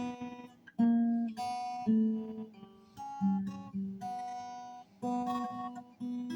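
Acoustic guitar played in an improvised practice run, with notes and chords struck roughly once a second and left to ring.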